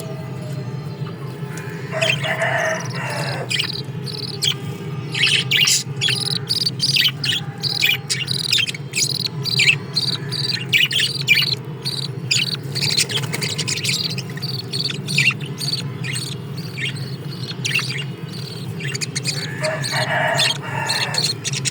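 Small cage birds chirping in a dense, rapid run of short high chirps, with a steady low hum underneath. A harsher, lower call cuts in about two seconds in and again near the end.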